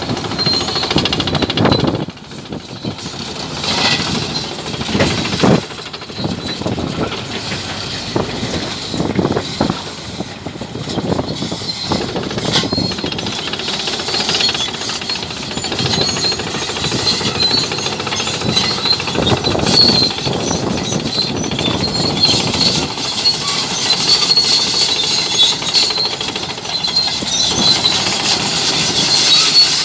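Bulldozer at work: its diesel engine running under load while the steel crawler tracks clank and rattle, with high metallic squeals growing more frequent in the second half.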